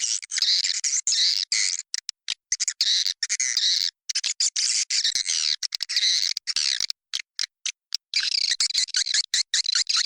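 Swiftlets twittering in a dense flock: many high chirps crowded together, broken by sharp clicks and short gaps, with a longer pause about seven seconds in. This is a swiftlet-house call recording, the kind played to lure swiftlets in to nest.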